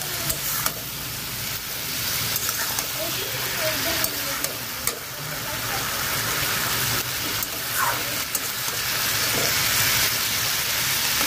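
Potatoes and aubergine frying in spiced oil in a kadai, sizzling steadily. A steel spatula stirs and scrapes against the pan, making scattered sharp clicks.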